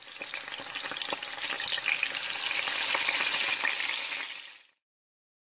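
Food sizzling in a hot frying pan, with small crackles throughout. It fades in at the start, then fades away and stops about four and a half seconds in.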